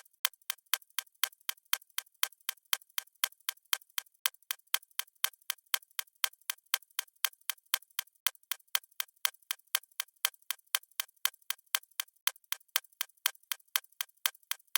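Clock ticking steadily and fast, about four ticks a second.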